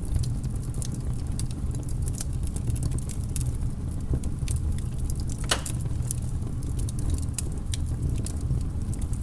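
Wood fire burning in a fireplace: a steady low rumble of flames with irregular crackles and pops, and one brief falling whistle about five and a half seconds in.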